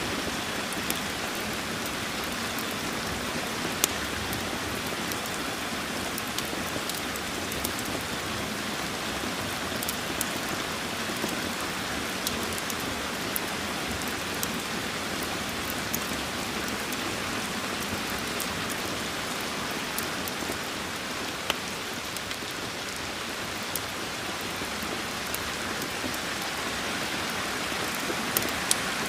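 Steady heavy rain, with a wood fire crackling in scattered sharp pops.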